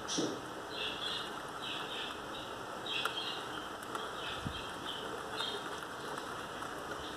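Steady rain falling, with a small bird chirping over and over in short, high bursts.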